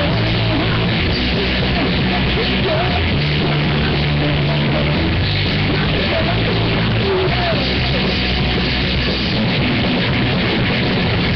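Live rock band playing loud, with electric guitar, drums and a pulsing bass line, picked up by a webcam microphone that leaves the sound poor and muffled, the top end cut off.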